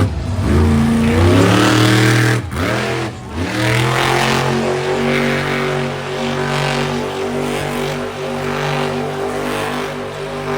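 Monster truck engine revving hard, climbing in pitch, with two quick throttle lifts about two and a half and three seconds in, then held at high revs with small wavers. This is the throttle work of holding the 12,000-pound truck balanced on its rear wheels in a wheelie.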